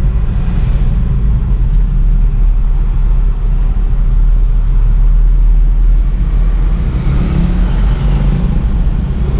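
Steady low rumble of a motor vehicle on the move, engine and road noise, with a swell of higher-pitched noise from about seven to eight and a half seconds in.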